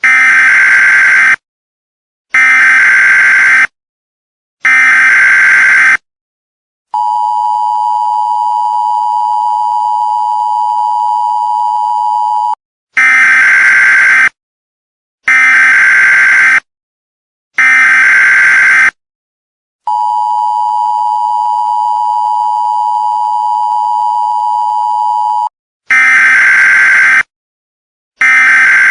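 Emergency Alert System broadcast tones, loud: three short screeching data bursts, a steady two-tone attention signal for about five and a half seconds, then three more bursts, a second long attention signal, and two more bursts near the end.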